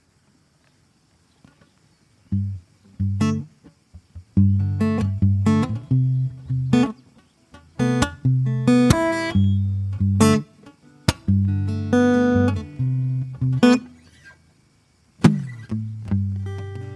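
Solo acoustic guitar played as a slow improvisation, with plucked notes and chords that ring out. It starts after about two seconds of near silence and pauses briefly near the end before resuming.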